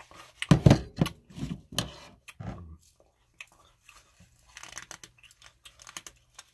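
Close-miked chewing and mouth sounds, loudest in the first few seconds. After that come softer small clicks and light rattles as a small glass shaker is handled and shaken over a bowl.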